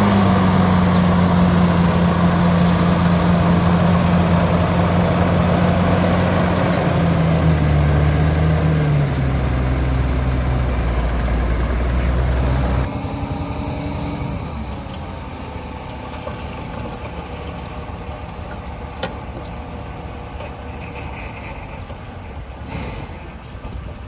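Heavy construction-machine diesel engine running under load, with a strong low hum whose pitch steps down a little after halfway. About half the way through, the sound drops sharply to a quieter, more distant engine noise that carries on to the end.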